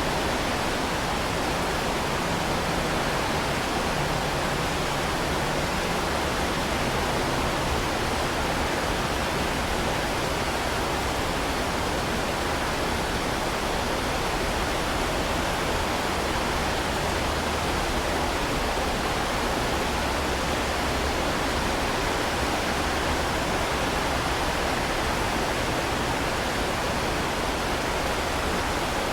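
Heavy rain falling steadily, an even wash of noise with no separate drops or thunder standing out.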